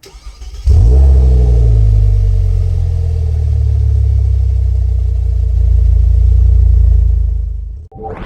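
A car engine starting with a sudden catch a little under a second in, then running steadily at a low, even pitch before fading out near the end.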